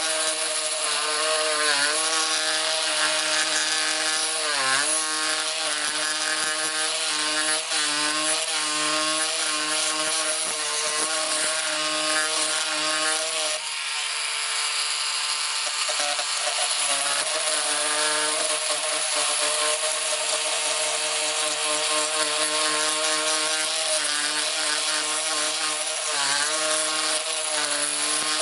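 Cordless multi-tool with a carbide jigsaw blade, set to speed 3, sawing continuously: a steady motor whine over a rasping hiss, its pitch dipping briefly a few times as the blade loads up, and easing for a few seconds about halfway through.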